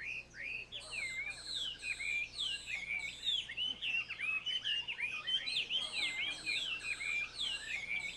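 Hwamei singing: a continuous run of loud, varied whistled phrases that slur up and down, following one another in quick succession.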